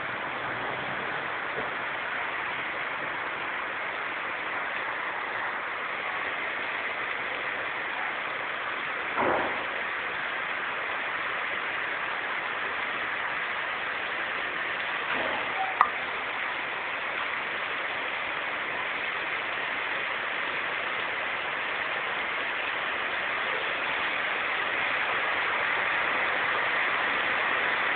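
Steady rain falling, an even hiss that grows slightly louder near the end. A short louder swell comes about nine seconds in, and a single sharp click a little past halfway.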